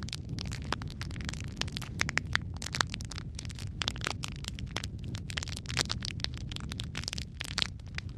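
Wood fire crackling steadily: dense, irregular pops and snaps of burning logs over a low rumble of flame.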